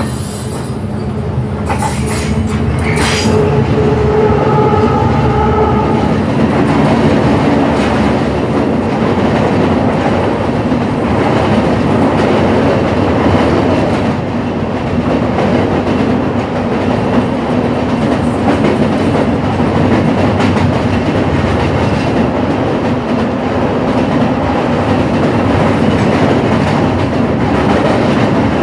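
A train rolling directly over a microphone placed between the rails on a girder bridge deck: a loud, steady rumble and clatter of wheels on rail from just below the train. It builds over the first few seconds as the locomotive arrives, then holds steady as the cars pass overhead.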